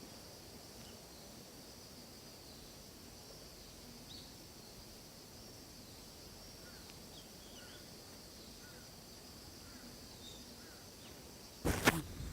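Faint forest ambience: a steady high drone of insects with a few soft, scattered bird chirps. Near the end comes a short, loud burst of noise.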